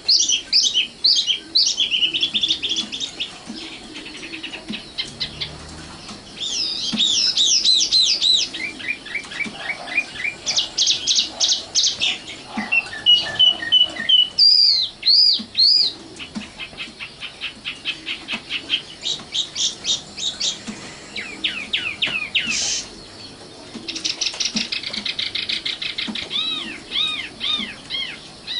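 Common nightingale singing: a string of varied phrases of rapid repeated notes, fast trills and slurred whistles, each phrase a couple of seconds long with short pauses between.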